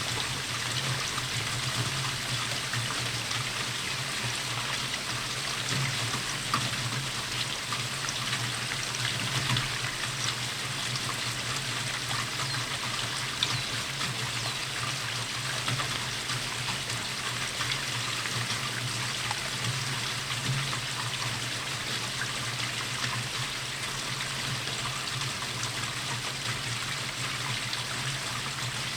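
Steady rainfall, an even hiss of falling rain with scattered individual drops ticking close by, a few slightly louder than the rest. A steady low drone sits underneath.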